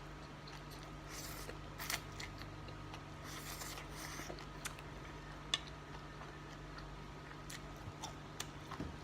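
Quiet eating and handling sounds at a table: a few soft crunchy smears and scattered light clicks over a steady low hum.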